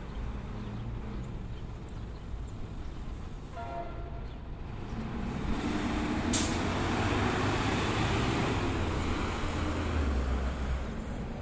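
Passenger train rolling past, its rumble building from about five seconds in and loudest in the second half, with a short tone just before and a sharp click about six seconds in.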